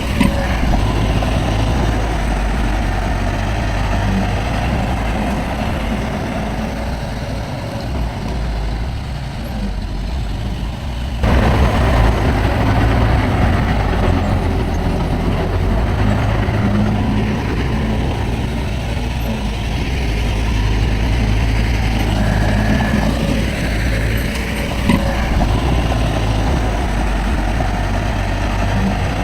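Heavy diesel engine of earthmoving machinery running steadily, with a sudden step up in loudness about eleven seconds in.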